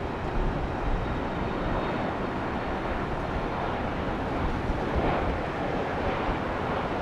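British Airways Airbus A321 jet airliner arriving to land, its engines giving a steady rushing rumble.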